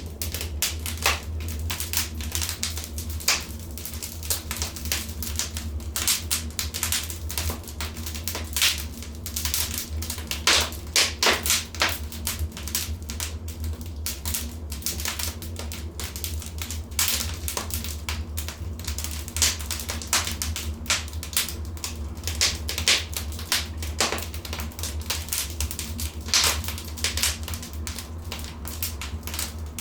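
Fireplace fire crackling and popping: dense, irregular sharp crackles over a steady low rumble, with a cluster of louder pops about ten to twelve seconds in.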